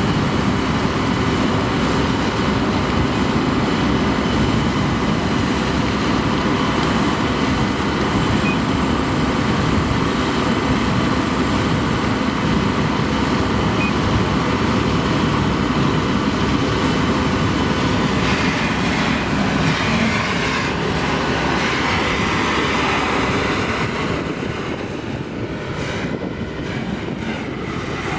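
Heavy machinery running steadily, an engine with a loud rushing noise and steady tones over it, dropping somewhat in level about 24 seconds in.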